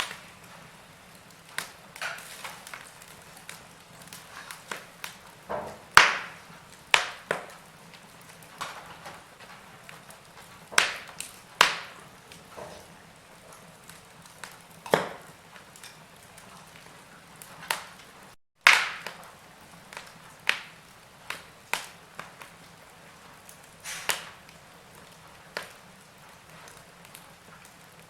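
Wood fire crackling in a fireplace: irregular sharp pops and snaps, some loud, over a faint steady hiss. The sound cuts out completely for an instant a little past halfway.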